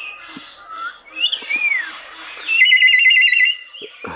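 Caged birds calling: a few whistles that glide up and down, then a loud, rapid warbling trill about two-thirds of the way through.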